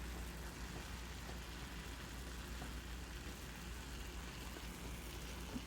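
Chicken pieces sizzling softly in a karahi over low heat as their fat slowly renders out, over a steady low hum.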